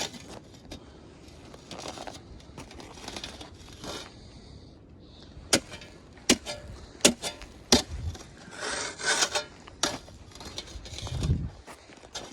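Footsteps crunching and scraping on ice-crusted snow, uneven, with several sharp clicks in the middle.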